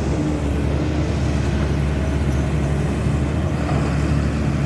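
Cat 320D2 hydraulic excavator's diesel engine running steadily, a continuous low drone.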